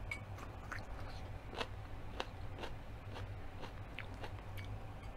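Close-up chewing of a crunchy raw mini sweet pepper, with scattered crisp crunches and mouth clicks. A steady low hum runs underneath.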